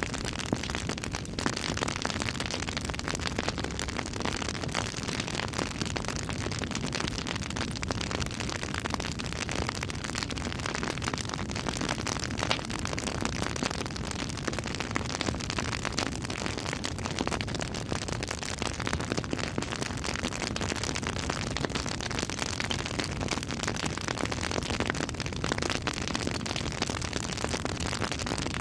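Campfire crackling: a steady hiss of burning with frequent small pops and snaps.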